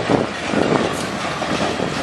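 Freight cars of a passing train rolling by: a steady rumble of steel wheels on the rails, broken by a few irregular clacks as the wheels cross rail joints.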